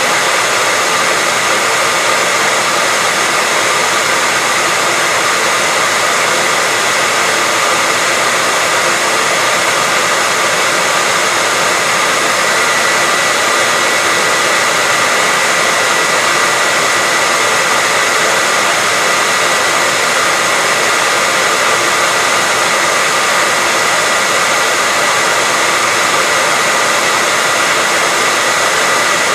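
Hair dryer blowing steadily: an even rushing hiss with a steady whine in it.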